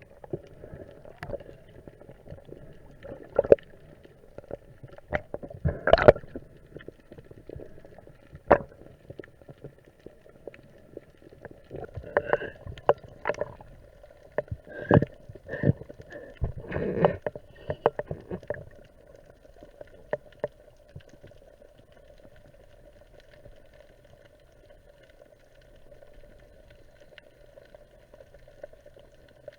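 Underwater recording of water moving and sloshing, with scattered clicks and knocks over the first two-thirds. A faint steady hum runs underneath.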